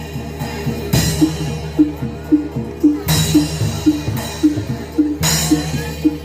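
Javanese gamelan accompaniment for a Barongan dance: a steady pitched beat about twice a second over low held tones, with three louder crashes about two seconds apart.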